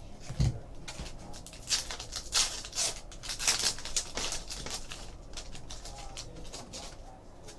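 A pack of baseball cards being opened and its cards handled: quick, crisp crinkling and rustling of the wrapper and the card stock, busiest in the middle.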